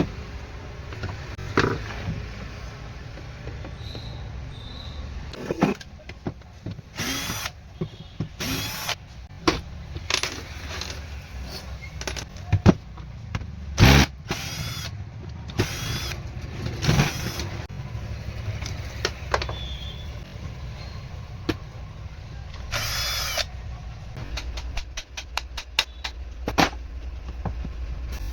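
Hand repair work on a CM4 electric wood cutter: irregular clicks and knocks of parts and tools being handled, with a power tool running in a few brief bursts, over a steady low rumble.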